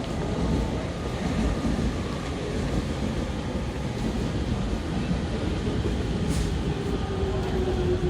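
Fifteen-car Sobu Rapid Line electric train running into the platform, a steady rumble of wheels and running gear. In the last couple of seconds a faint tone glides slowly down in pitch as the train slows to a stop.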